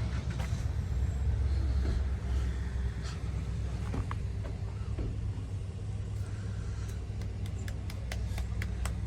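Low, steady rumble of a car engine running, with a few light clicks near the end.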